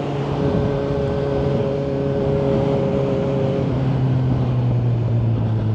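Kawasaki Z900's inline-four engine through a Yoshimura exhaust, running steadily under way with wind noise. Its pitch eases slightly lower about four seconds in.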